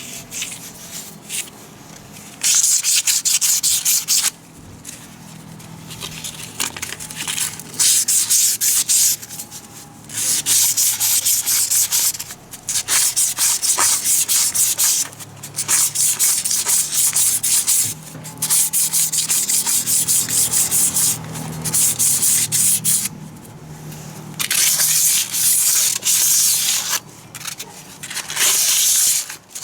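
Hand abrasive scrubbing of a part, sanding-like: about ten bursts of rapid back-and-forth scratchy strokes, each lasting one to three seconds, with short pauses between them.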